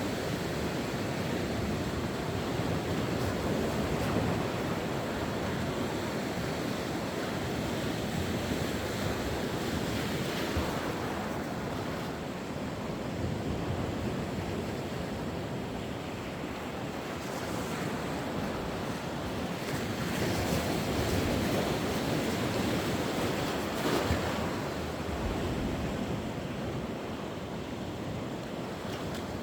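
Sea waves washing onto the shore, a continuous rushing that swells and eases as the waves come in, with wind buffeting the microphone.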